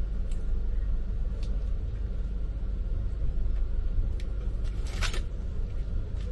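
Moving train heard from inside the sleeper coach: a steady low rumble, with a few faint clicks and one sharper click about five seconds in.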